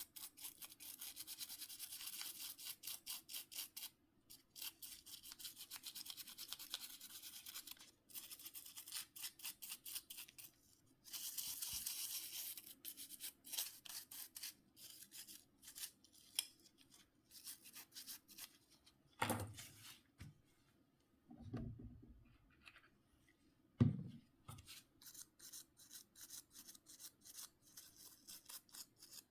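Small brush scrubbing phone parts in quick, even strokes, about five a second, in runs with short pauses. A few louder bumps come in the second half as the parts are handled.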